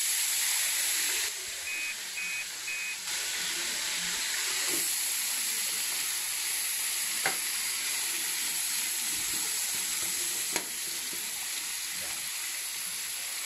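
Potato pieces frying in oil in a wok, giving a steady sizzle. Three short beeps come about two seconds in, and two sharp clicks come in the second half.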